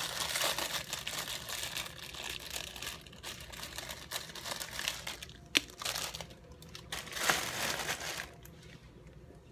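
Plastic packaging crinkling and rustling as it is handled. There is a sharp click about five and a half seconds in and a short louder rustle around seven seconds.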